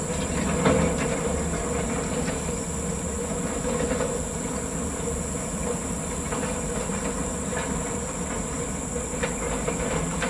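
Steady drone of a heavy vehicle running, with a few faint clicks and a thin high hiss over it.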